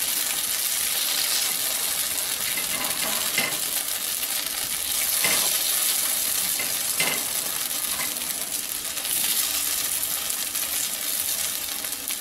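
Kodo millet kuzhi paniyaram frying in oil in a cast-iron paniyaram pan, a steady sizzle. A few light clicks of the turning tool against the pan come through as the paniyarams are flipped over.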